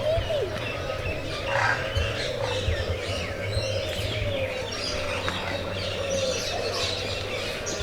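Many small aviary birds chirping and twittering together in a dense, continuous chorus, over a low, steady, wavering tone.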